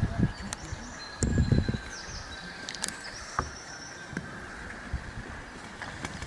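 Birds chirping outdoors in short, high warbling phrases over a faint steady whine, with a few low thumps and clicks about a second in.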